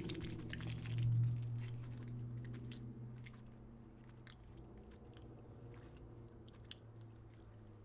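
A person chewing a frozen pecan Snickers bar, with scattered crunchy clicks, over a low steady hum that is strongest about a second in and then fades.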